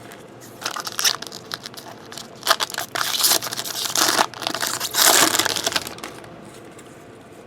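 Trading-card pack wrapper crinkling and crumpling in the hands, in several rustling spells over about five seconds that die away near the end.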